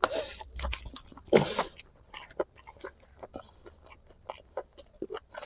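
Close-miked mouth sounds of someone eating spicy braised pig feet: biting and chewing the gelatinous skin and meat, heard as many short wet clicks. A louder, noisier mouth sound, such as a bite or a slurp, comes in the first second and a half.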